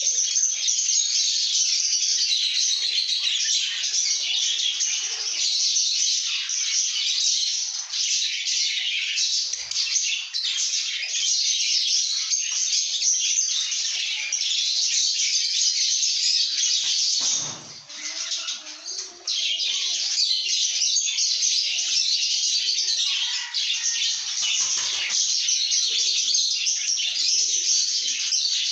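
A group of lovebirds chirping and chattering in a dense, continuous high-pitched stream, with a short lull about two-thirds of the way through.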